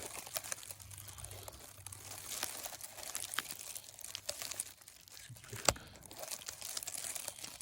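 Dry vegetation rustling and crackling as it is moved by hand, close to the microphone, with scattered ticks and one sharp snap about two-thirds of the way through.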